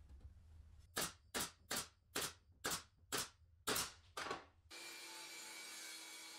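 Eight sharp knocks in an even rhythm, about two a second. They cut off abruptly into a steady scraping hiss with a faint hum.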